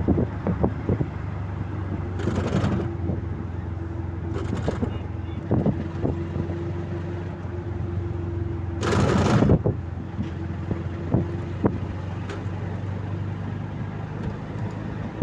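Vehicle engine running steadily with a low hum, broken by a few brief rushing noises, the loudest about nine seconds in.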